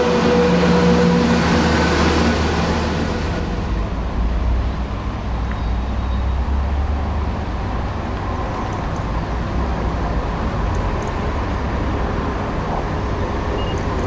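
Diesel multiple unit passing at speed, its engine and transmission giving several steady tones over wheel and rail noise. About three seconds in this gives way abruptly to a steady low rumble as another diesel unit approaches from a distance.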